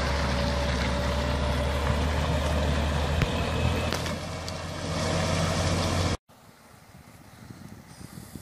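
Heavy truck engine running steadily with a low drone, then cut off abruptly about six seconds in, leaving a much quieter background with a few faint knocks.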